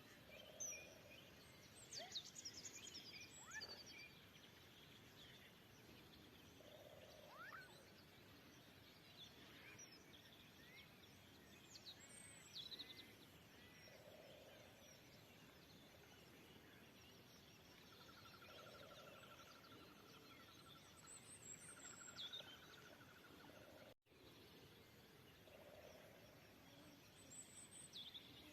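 Faint spring outdoor ambience of wild birds singing: scattered short chirps and sweeping whistled calls, two brief even trills in the second half, and a soft lower call repeating every couple of seconds over a steady hiss. The sound drops out for an instant about two-thirds of the way through.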